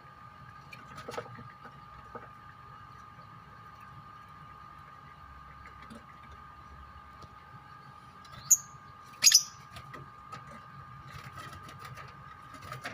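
Lovebirds giving two sharp, shrill calls in quick succession past the middle, with scattered faint chirps and clicks over a steady faint hum.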